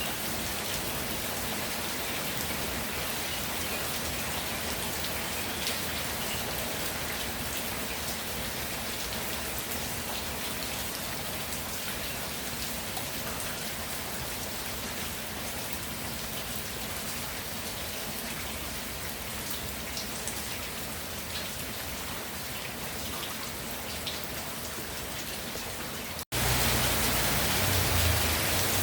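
Steady rainfall, with scattered drops ticking out of the even hiss. About 26 seconds in it cuts out for an instant and comes back louder and heavier, with more low rumble.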